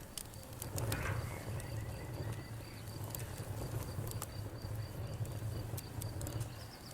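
Campfire crackling, with scattered sharp pops over a low steady rumble. An insect, cricket-like, chirps in an even high-pitched pulse throughout.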